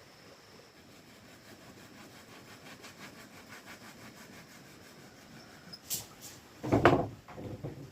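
Quiet background with a faint steady high whine, then near the end a sharp click and two loud rasping strokes, like wood being sawn or scraped.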